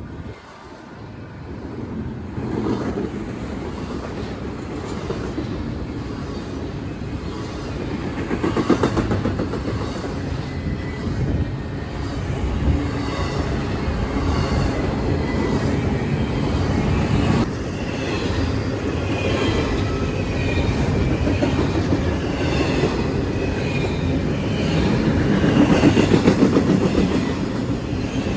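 Freight train rolling past, a steady rumble with wheels clicking rhythmically over the rail joints, building up over the first couple of seconds and loudest about nine seconds in and again near the end.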